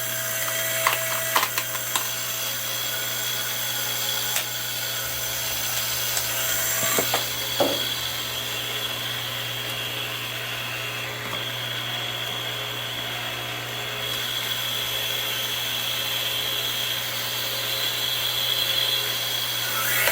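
Hydraulic log splitter running steadily, its pump giving a constant hum and a high whine, with a few sharp knocks and clicks of wood and metal.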